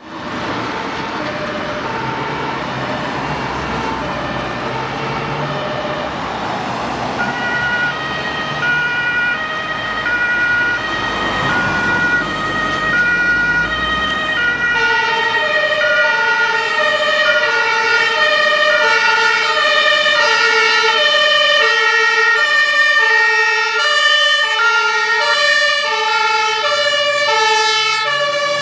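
German two-tone fire-service sirens alternating between two steady pitches, growing louder as the command car and the Scania aerial ladder truck approach. From about halfway the tones are louder and overlap. A low vehicle rumble sits under the first half.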